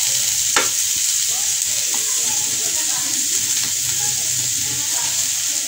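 Shredded chicken and vegetables sizzling in oil in a wok with a steady hiss, as julienned carrots are tipped in. A single light knock about half a second in.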